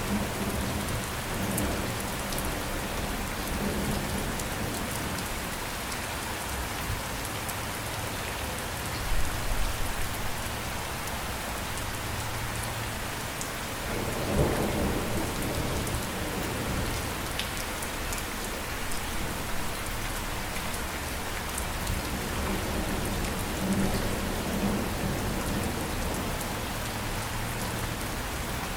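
Steady rain with low rolls of thunder, the strongest about nine seconds in and again about fourteen seconds in.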